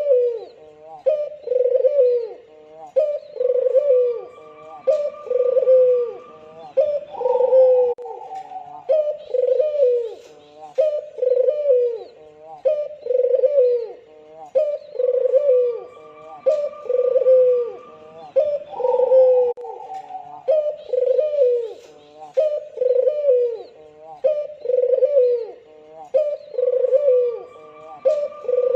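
Albino puter (Barbary dove) cooing over and over, about one coo a second, each coo dipping in pitch.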